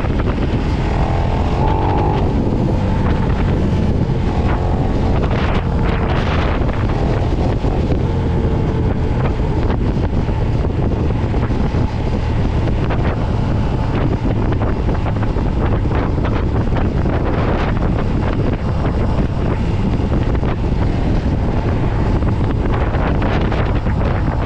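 Motorcycle being ridden at a steady pace, its engine rumbling steadily under heavy wind noise buffeting the microphone.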